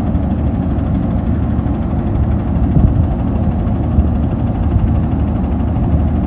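Garbage truck engine running steadily, a loud low rumble with no change in speed.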